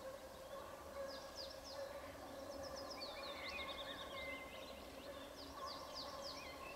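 Songbirds chirping, with short quick notes and falling trills in three bursts about a second, three seconds and six seconds in, over a faint steady hum.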